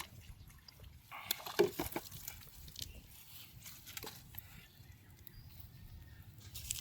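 Water splashing and dripping, with scattered sharp clicks and knocks. The loudest splash comes about a second and a half in.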